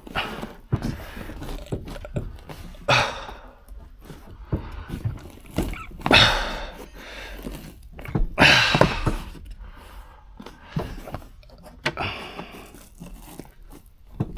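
Interior trim panels being handled and forced into place: short bursts of rustling and scraping with scattered knocks.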